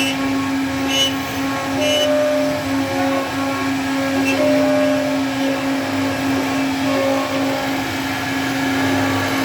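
CNC router spindle running steadily with a constant whine, with a few faint ticks in the first two seconds.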